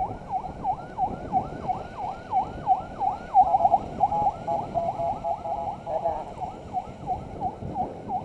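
Six-tone electronic siren on an escort motorcycle, yelping in quick sweeps of about three a second. About three seconds in it switches to a choppy stepped warble, then goes back to sweeps, over the steady rumble of the ride.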